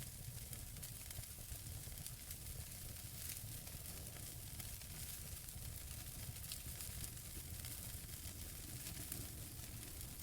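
Wood fire burning in a fireplace: a steady low hiss with frequent small crackles and pops from the burning logs.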